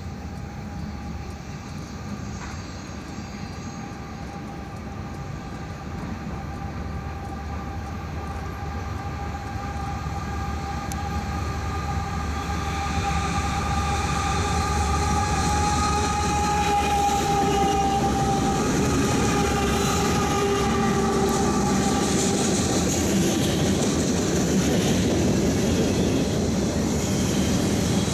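Diesel-hauled freight train approaching, its locomotive horn sounding a long, steady chord over the engine noise and growing louder as the train nears. In the last several seconds the horn stops and the heavy running noise of the locomotives and cars passing close by takes over.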